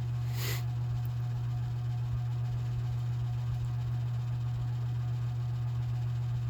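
Lasko 3733 box fan motor humming steadily at one low pitch on its high setting, cold-started and straining, not yet up to speed or broken free. A brief rustle about half a second in.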